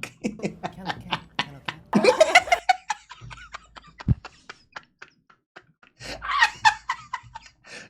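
A man laughing hard, in a run of short breathy bursts with a couple of brief voiced cries.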